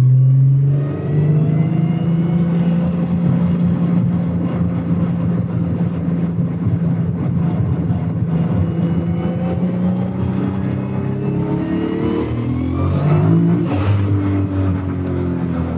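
Turbocharged VR6 engine of a VW Golf 3 heard from inside the cabin, pulling hard through the gears at wastegate boost (0.9 bar). About twelve seconds in the revs and turbo whine climb steeply, then drop sharply at a gear change with a short burst of noise.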